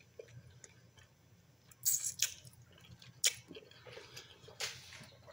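Close-up mouth sounds of a person eating barbecue ribs: chewing, with a handful of short, wet lip smacks from about two seconds in.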